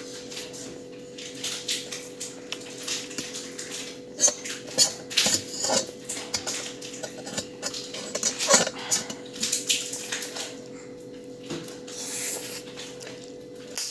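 Slurping and chewing of instant noodles in irregular wet bursts, with light clinks of cutlery against a dish, over a steady faint hum.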